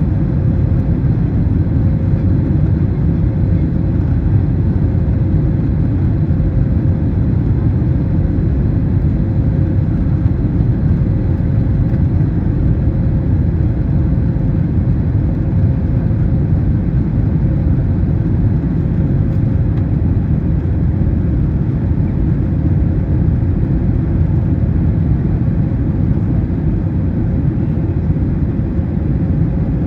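Airbus A321neo cabin noise in flight: a steady, deep rumble of engines and airflow, with a faint steady hum above it. The aircraft's Pratt & Whitney PW1100G geared turbofans are running.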